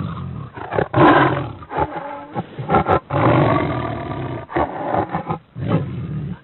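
Big cats roaring, a run of several loud, rough roars with short breaks between them.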